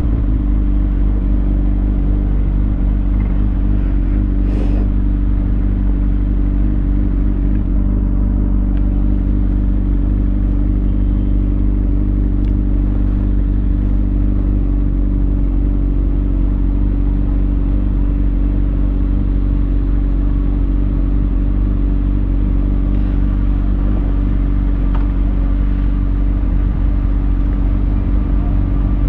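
A 2020 Kawasaki Ninja ZX6R's inline-four engine idling steadily through a Lextek SP7C carbon exhaust with decat headers.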